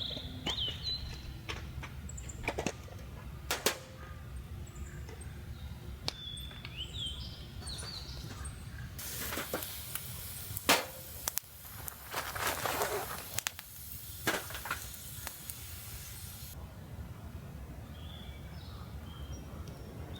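Small birds chirping in short calls over a low outdoor rumble, with scattered sharp cracks and clicks, and a stretch of rustling handling noise in the middle.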